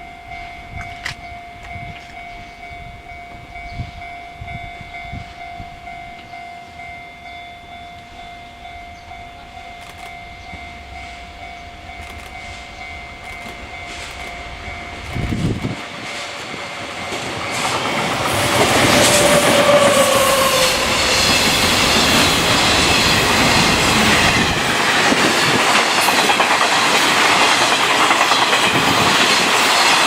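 Freight train approaching and then passing close by, its wheels clicking rapidly over the rail joints for the last twelve seconds or so. A brief falling horn tone sounds as it reaches the spot.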